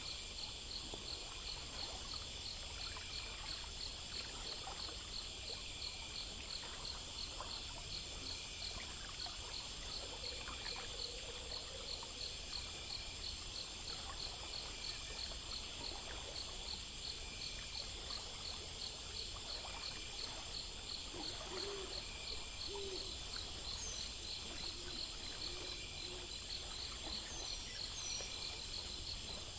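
Night chorus of crickets and other insects trilling steadily, with a few faint low owl hoots.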